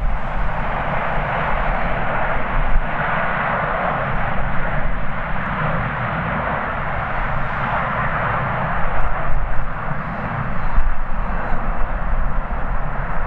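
Jet airliner's engines running at takeoff power as it departs, a steady loud rush that swells slightly near the end, with strong gusting wind buffeting the microphone underneath.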